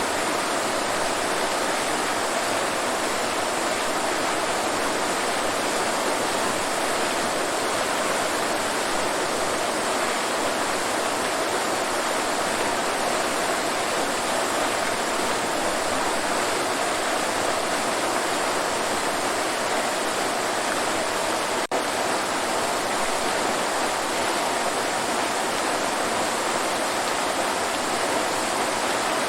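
Waterfall, a steady full rush of falling water with no change in level, broken only by a momentary dropout about two-thirds of the way through.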